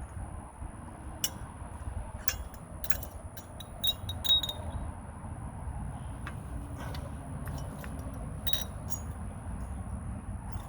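Scattered light metallic clinks and taps from tools and brake hardware being handled during a rear brake pad change, two of them ringing briefly, over a steady low rumble.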